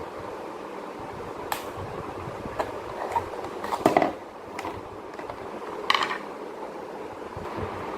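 Scattered clicks and light metal clinks of wall-fan parts and screws being handled while the fan motor is taken apart, about six in all. The loudest is a cluster about four seconds in, and another comes about six seconds in, over a steady whooshing background noise.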